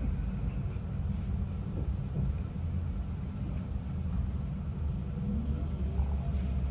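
On-board running noise of a Greater Anglia Class 745 FLIRT electric train: a steady low rumble.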